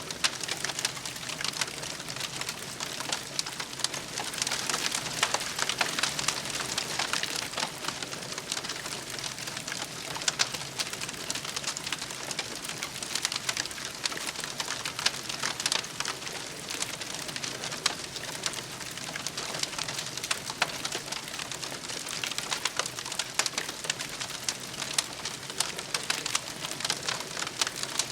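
Campfire crackling, with dense small pops and snaps over a steady hiss.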